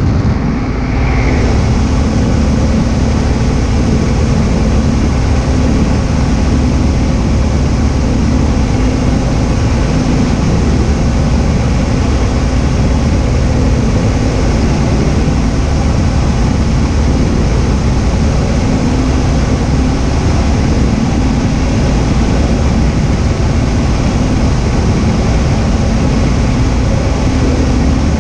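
Cessna 172H's six-cylinder Continental O-300 engine and propeller droning steadily in flight.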